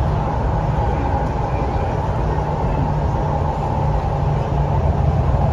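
Hyundai Rotem electric multiple unit (MTR East Rail line R-Train) running, heard from inside the passenger car: a steady low rumble of the moving train.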